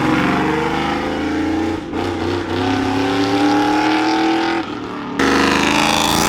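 Vehicle engine revving hard, its pitch climbing steadily as it accelerates. The sound breaks off abruptly about two seconds in and again about five seconds in, each time picking up with another engine note.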